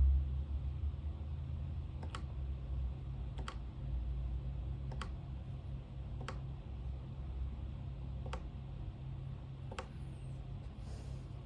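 Single key presses on a computer keyboard, one every second or so rather than continuous typing, over a steady low hum.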